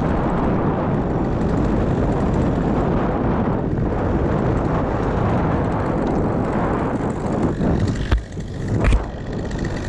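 Strong wind buffeting the microphone as a steady low rumble. Near the end come two sharp knocks about a second apart.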